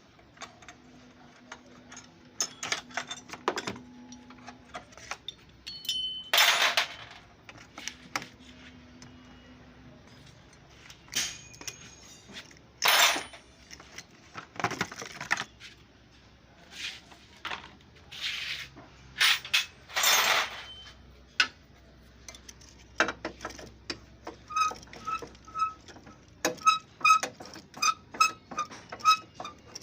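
Hand tools and loose metal parts clinking and knocking as a car's crash-damaged front end is taken apart, with several short rushing noises between the clinks and a fast run of sharp ticks near the end.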